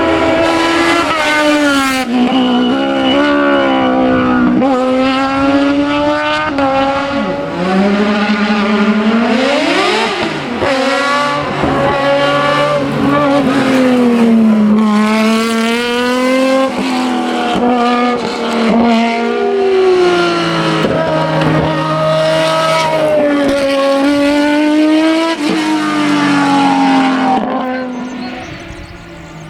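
Racing car engine driven hard up a hillclimb, revving high, with the pitch repeatedly climbing and falling as it shifts gears and lifts for corners. The engine fades away near the end as the car drives off.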